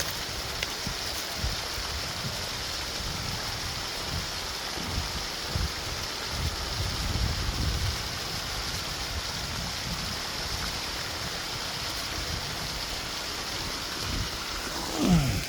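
Steady rush of running water from a small mountain creek and spring pipe, with low gusts of wind on the microphone.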